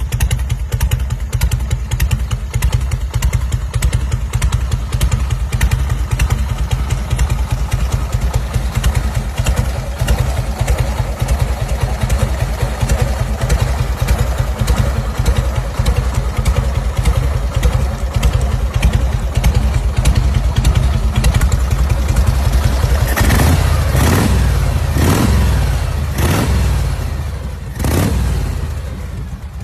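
Custom motorcycle engine idling with a fast, even beat. In the last several seconds it is revved in about four quick throttle blips, each rising and falling back.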